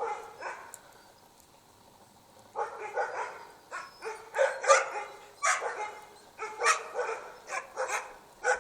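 Norwegian Elkhounds barking: a quick run of repeated sharp barks that starts about two and a half seconds in and keeps going.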